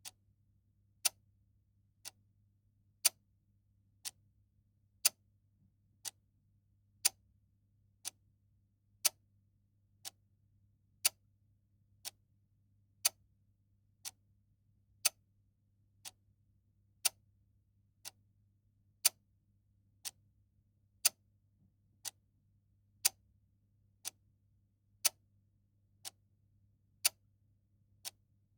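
Mechanical clock ticking steadily, one tick a second, alternating louder and softer ticks in a tick-tock pattern, over a faint low hum.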